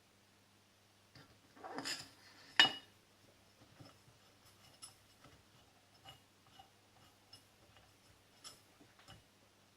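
Small metal turbocharger parts being handled during reassembly: a short rattle, then one sharp metal clink between two and three seconds in, followed by scattered light clicks and taps.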